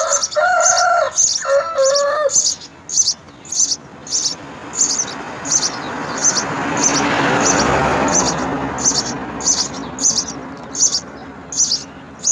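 House sparrows chirping in a steady, even series of short high chirps, about two to three a second. A rooster crows twice in the first two seconds. A broad rushing noise swells and fades in the middle.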